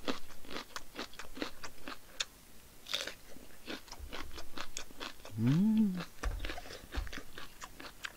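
Close-miked crunchy chewing of a raw green chili pepper: a quick run of sharp crunches, about three or four a second. About five seconds in, a short hummed "mm" rises and falls in pitch.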